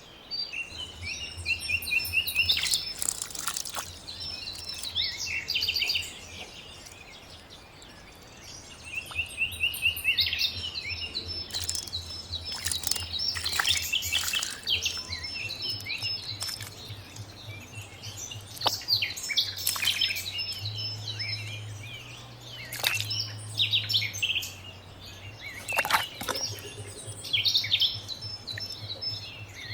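Small birds chirping and trilling repeatedly in short phrases, over a faint, steady low hum.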